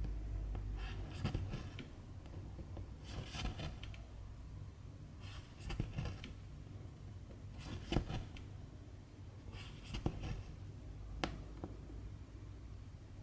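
Needle and silk thread being pulled through 11-count cross-stitch fabric: short swishes, about one every two seconds, as each stitch is drawn through.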